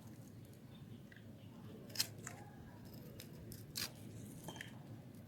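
Blade cutting into a bar of hard, dry soap, giving a few sharp, crisp cracks as pieces split off. The loudest is about two seconds in, with another a little before four seconds.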